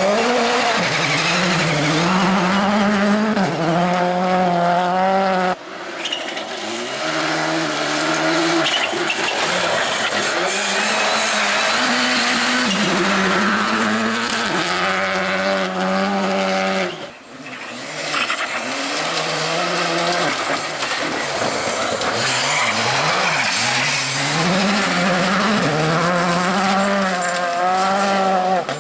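Rally cars driving flat out, engines revving high with the pitch climbing and dropping again and again through gear changes, with some tyre noise. The sound breaks off sharply twice, about six and seventeen seconds in, and each time a new run starts.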